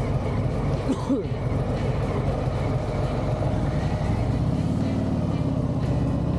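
Harley-Davidson Sport Glide's V-twin engine running at road speed under wind rush, its note rising about four seconds in as the bike speeds up, then holding steady.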